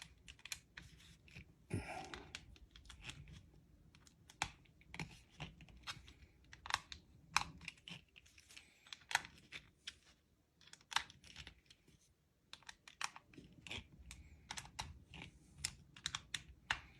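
Irregular small clicks and taps of clipper parts being handled and fitted together while a Heiniger Saphir cordless clipper is reassembled.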